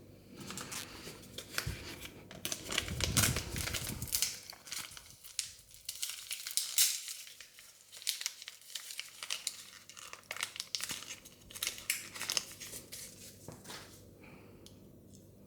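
Thin plastic wrapping of a Mini Brands surprise ball crinkling and tearing as it is peeled open by hand, a dense run of fast crackles that dies away near the end.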